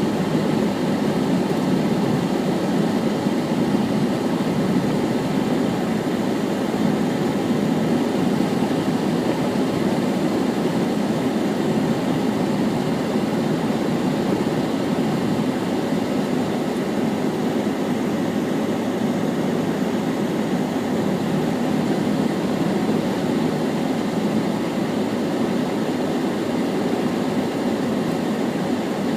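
Steady low rumble inside a car's cabin, with no change in level throughout.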